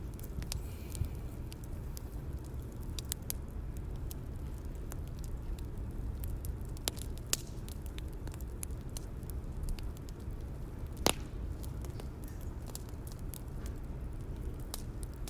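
Bonfire crackling: a steady low rumble of burning with scattered sharp pops, the loudest about eleven seconds in.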